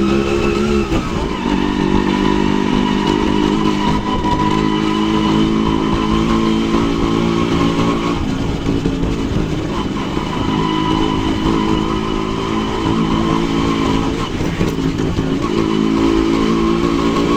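Yamaha RX100 two-stroke motorcycle engine running under a rider on the move, its note dropping about a second in as the throttle eases, then holding fairly steady before the revs pick up again near the end.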